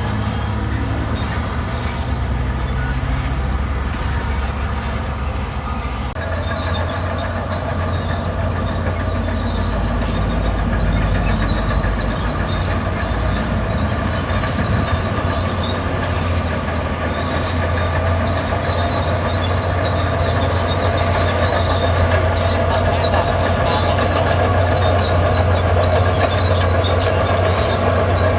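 Heavy diesel construction machinery running steadily. It works harder from about six seconds in, with a faint high metallic squeal over the engine.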